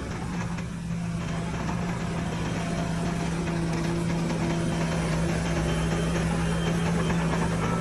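Heavy diesel engine of earthmoving machinery running steadily at a constant speed, a low even drone.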